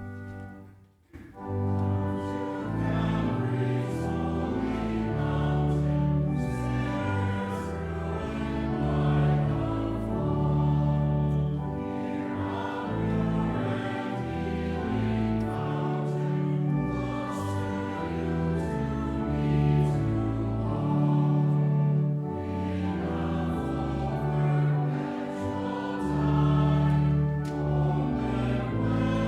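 Choir singing slow, sustained chords in phrases, starting about a second in after a brief break in the music.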